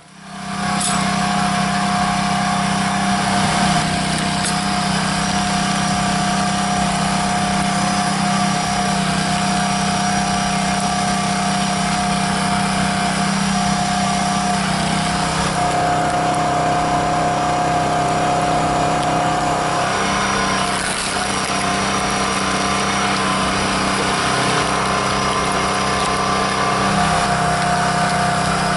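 A firewood-processing machine's motor running steadily: a constant mechanical drone with a steady hum, its tone shifting slightly about halfway through and again a little later.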